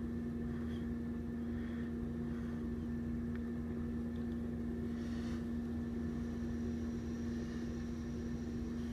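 Dump truck's engine running at a steady idle, a constant even hum.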